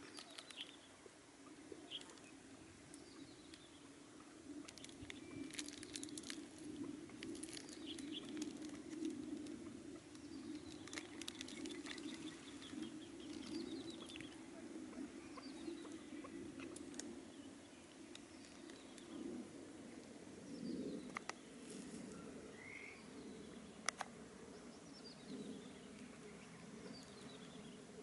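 Faint bird chirps and short falling whistles, scattered throughout, over a low steady hum, with a few sharp clicks; one click late on is the loudest sound.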